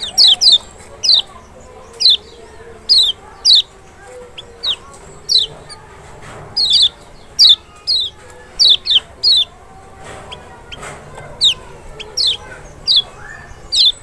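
Kecial, the Lombok white-eye (Zosterops chloris maxi), singing a run of loud, short, high whistled notes, each sliding down in pitch, coming singly or in quick pairs about twice a second.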